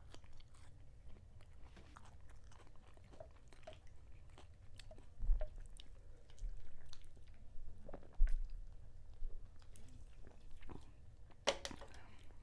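Close-miked chewing and mouth sounds of a person eating, with many small wet clicks and smacks. There are two low thumps, about five and eight seconds in.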